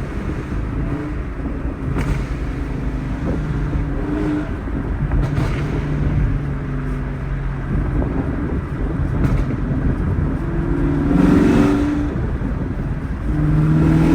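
Chevrolet Camaro SS V8 with a catless exhaust running under way, a steady low rumble whose engine note rises and falls with the throttle, climbing briefly near the end.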